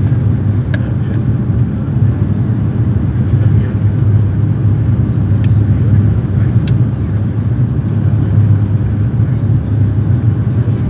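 Dash 8 turboprop aircraft's engines and propellers giving a steady low drone, with a few faint clicks over it.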